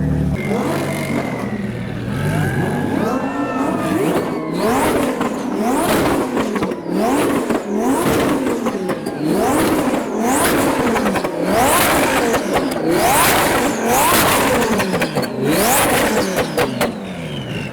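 Twin-turbo Audi R8's V10 engine being revved over and over, about one rev a second, each rev rising and dropping back, with sharp exhaust pops and bangs as it shoots flames.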